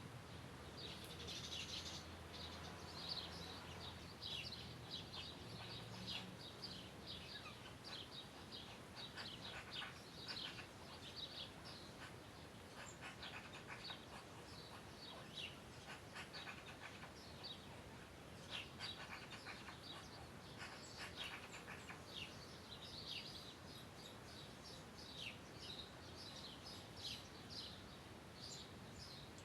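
Songbirds chirping and twittering faintly, many short, quick high calls overlapping through the whole stretch, over soft outdoor background noise.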